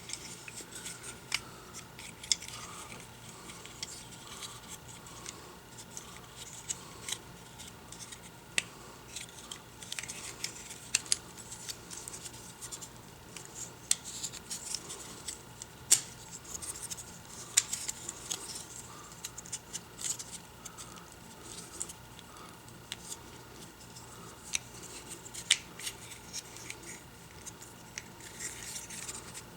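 Hard plastic parts of a Transformers Combiner Wars Blades action figure being handled and transformed: irregular sharp clicks as the joints and pieces snap into place, with light rubbing and scraping of plastic between them.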